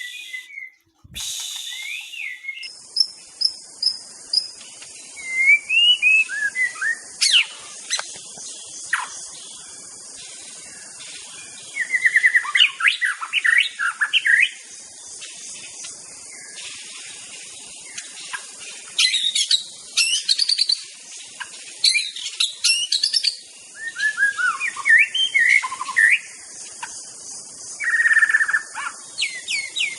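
White-rumped shama in full song: a varied run of clear whistles, rising and falling sweeps, chirps and quick trills, delivered in bursts with short pauses, over a steady high hiss.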